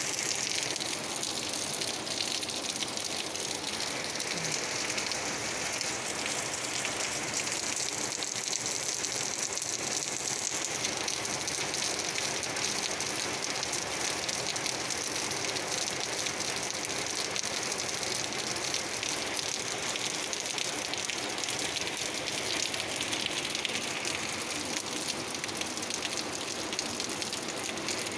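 Heavy rain pouring onto wet asphalt, puddles and foliage: a steady, even hiss of falling and splashing water.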